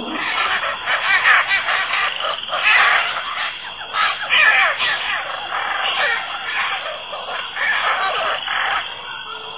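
Dense chorus of many overlapping wild animal calls, swelling and dipping in loudness, which cuts off abruptly about nine seconds in.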